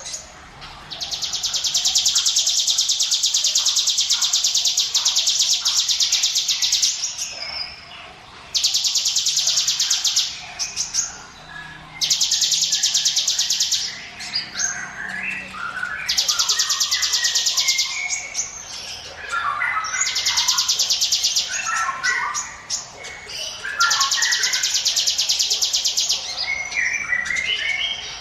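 Ciblek gunung songbird singing its 'ngiwit wit' song: long, very fast trills of high notes, each lasting a few seconds, alternating with shorter chirping phrases in between.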